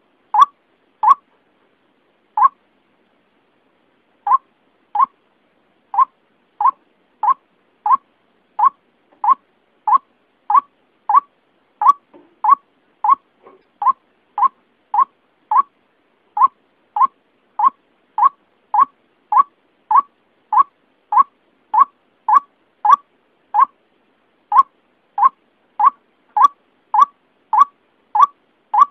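Lure recording of a white-breasted waterhen (ruak-ruak) calling: short, even notes repeated about three every two seconds, with a brief pause about two seconds in.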